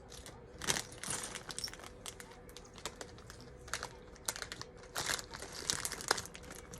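Plastic Lego pieces clicking and rattling as they are handled and fitted together, a string of sharp irregular clicks.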